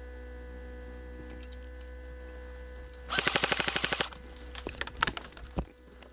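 Airsoft gun firing a full-auto burst of about a second, rapid clicks at roughly twenty a second, about three seconds in. A few scattered single clicks and a low thump follow, over a steady electrical hum.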